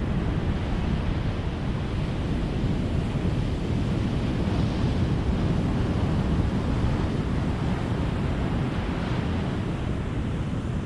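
Ocean surf: a steady wash of breaking waves, swelling slightly about four seconds in and again near nine seconds.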